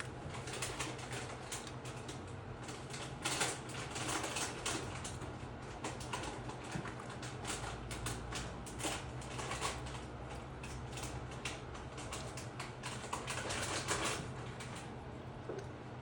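Small birds pecking and tapping at a bird feeder: rapid, irregular clicking, with a steady low hum underneath.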